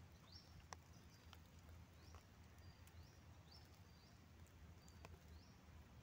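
Faint bird calling over and over, short high notes that each slide quickly upward, some led by a brief steady note, with a few faint ticks under a low steady hum.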